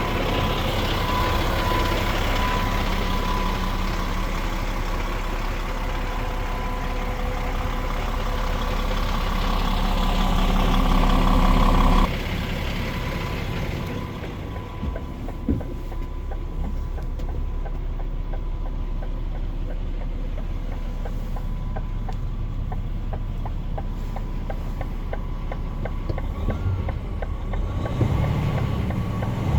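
DAF XG 530 truck's PACCAR MX-13 six-cylinder diesel running steadily, growing gradually louder for about twelve seconds. It then drops abruptly to a quieter, even idle.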